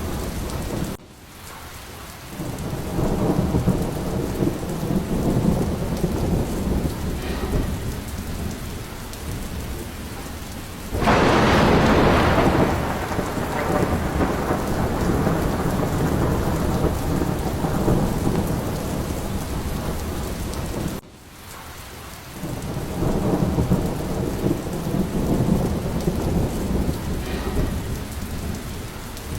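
Steady heavy rain with rolling thunder rumbling low underneath. A sharp thunderclap about eleven seconds in is the loudest moment, followed by long rumbling. The sound dips briefly twice, about a second in and again about twenty-one seconds in.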